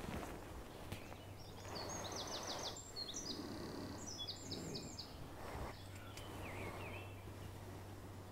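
A small songbird sings two quick phrases of rapid repeated high notes, with a shorter snatch later, over faint rustling of feet and hands on leaf litter as tarp guy lines are pegged out.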